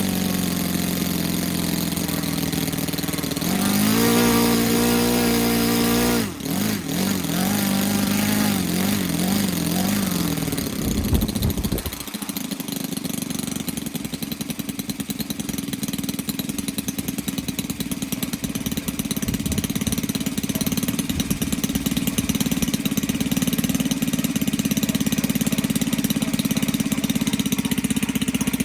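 Saito FA-182 twin-cylinder model aircraft engine, converted to CDI spark ignition and breathing through a twin-to-one exhaust, running with a 17x8 wooden propeller. It holds higher revs for a couple of seconds about four seconds in, wavers as the throttle comes back, and settles into a steady idle from about twelve seconds in.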